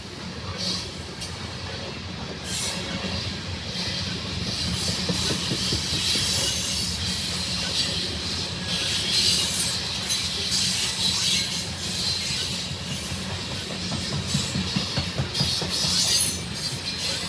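Coal train's freight cars rolling past on the rails: a steady rumble of wheels with clicking over the rail joints, and the wheels squealing now and then in high-pitched patches.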